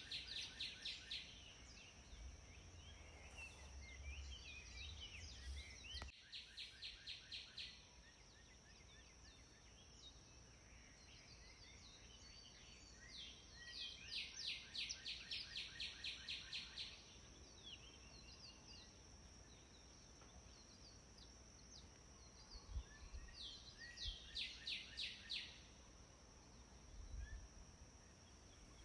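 Faint birdsong: a bird sings bursts of quick, evenly repeated high chirps four times, each lasting one to three seconds. A steady high-pitched tone runs underneath, and a low rumble comes and goes a few seconds in.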